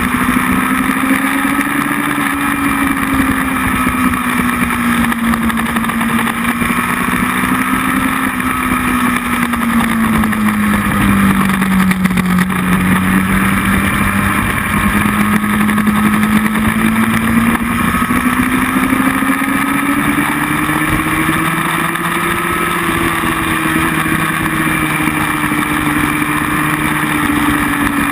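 Motorcycle engine running at speed, its revs slowly falling about halfway through and then climbing again, over a steady rush of noise.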